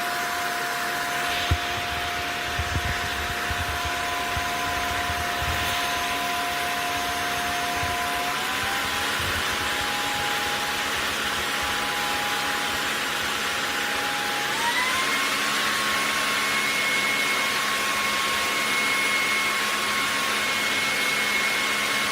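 LEVOIT cordless stick vacuum running steadily, its motor whine stepping up in pitch twice, about eight and fourteen seconds in, as it is switched up through its power modes. A few low knocks come in the first few seconds.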